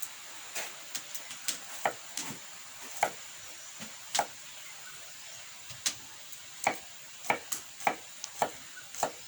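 Irregular sharp wooden clicks and knocks, about twenty of them with uneven gaps and some in quick pairs, over a steady faint high-pitched hum.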